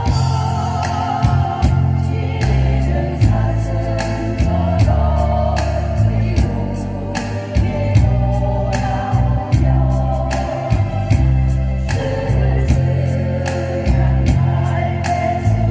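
Vocal ensemble singing together over instrumental accompaniment with a bass line and a steady beat.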